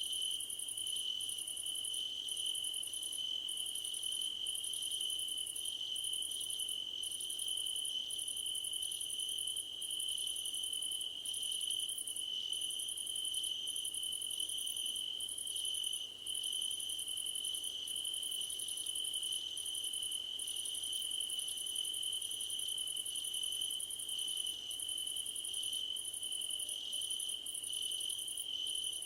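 Crickets chirping in a dense chorus: one steady, unbroken high trill with a higher, pulsing chorus above it.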